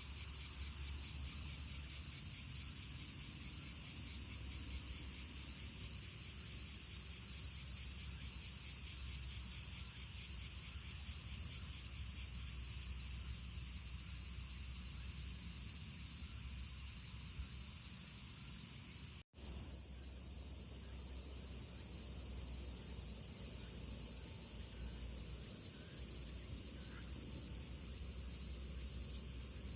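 Steady high-pitched insect chorus, like crickets, with a low hum underneath; the sound cuts out for an instant about two-thirds of the way through, then carries on unchanged.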